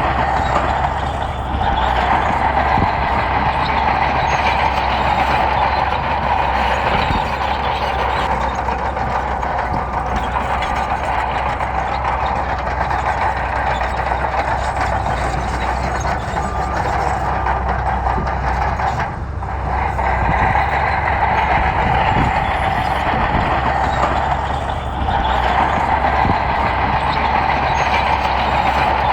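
A heavy bulldozer working, its diesel engine running steadily with a constant mechanical drone, easing briefly a few times.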